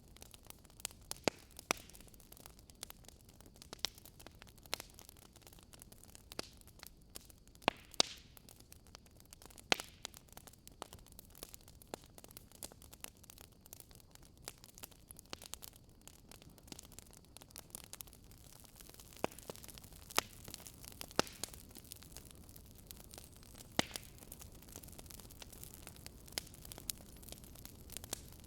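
Wood campfire crackling: irregular sharp pops and snaps, a few much louder than the rest, over a low steady hiss.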